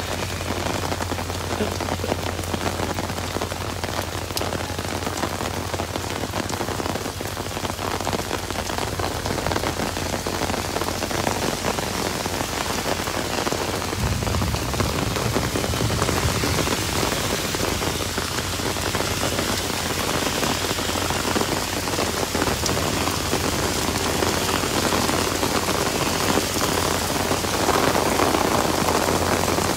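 Heavy rain pouring steadily onto a wet paved road, an even hiss of splashing drops that grows a little louder near the end.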